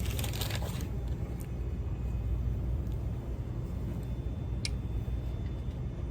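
Steady low rumble of a car idling, heard from inside the cabin, with a hiss that fades out in the first second and a single small click near the end.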